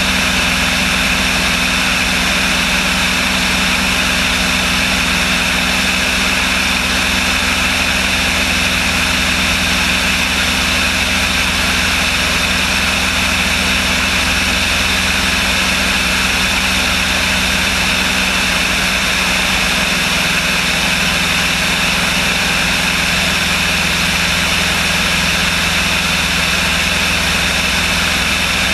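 Light aircraft's engine and propeller running steadily, a constant drone with fixed low tones and an even hiss that does not change.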